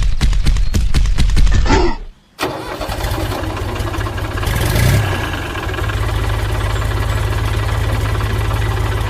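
Tractor engine chugging with a fast, even beat, cut off abruptly at about two seconds; after a brief gap an engine starts and settles into steady running, swelling briefly near the middle.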